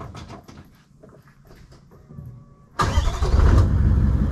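Toyota 79 Series Land Cruiser engine starting a little under three seconds in, catching at once and settling into a loud, steady idle, heard from right beside the exhaust tailpipe. Before it, only faint small clicks and knocks.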